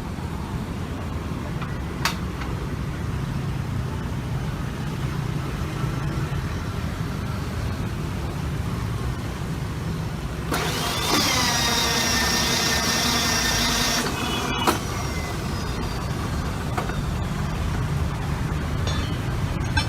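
Electric motor of a rebar machine: a steady low hum, then about halfway through the motor starts with a whine that drops in pitch, runs steadily for about four seconds and stops abruptly with a click. A single sharp click about two seconds in.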